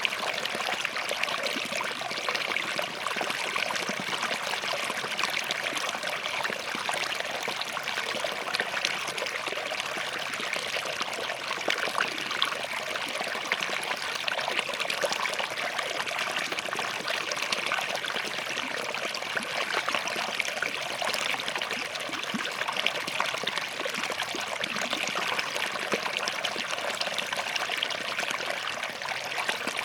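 Small forest stream running over and between rocks: a steady mix of babbling, trickling and fine splashing.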